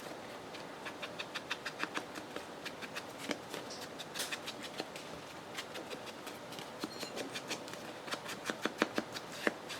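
Rapid light tapping, several dabs a second in runs, as an ink pad is dabbed around the edges of paper to ink them.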